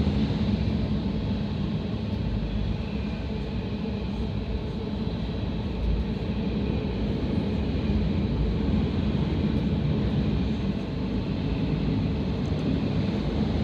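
CSX freight train's cars rolling past on the rails, a steady continuous rumble.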